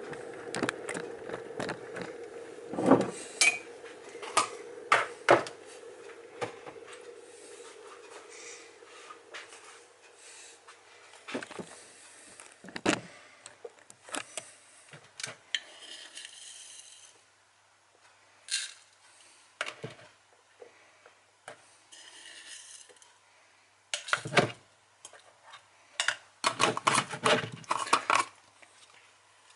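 Kitchen clatter while coffee is being made: scattered clinks, knocks and scrapes of a mug, spoon and other kitchenware being handled. A steady hum fades out over the first ten seconds.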